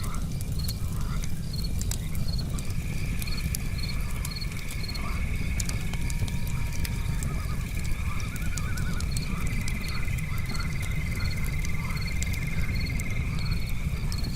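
Night chorus of crickets and frogs over a crackling campfire: a high chirp repeats about twice a second, croaking calls come and go lower down, and a long steady trill sets in about two seconds in. Sharp pops from burning logs sound throughout.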